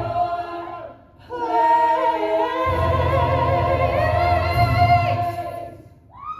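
Musical-theatre cast singing the last line of a number with the band. After a brief break about a second in, voices hold a long final chord, bass and band come in under it, and it fades out just before the end.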